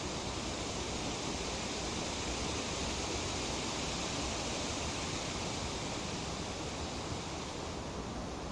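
Breeze rustling through tree leaves, a steady hiss-like rustle that swells slightly for a few seconds.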